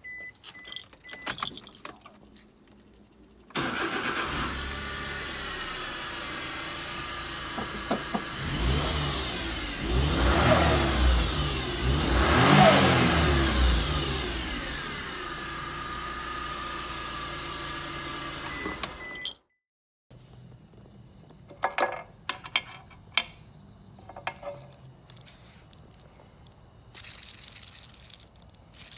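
Suzuki Every Wagon DA64W's 660 cc three-cylinder engine starting up and running, with a whine from the worn belt tensioner pulley that rises and falls as it is revved twice. The engine stops suddenly and is followed by scattered clicks and knocks.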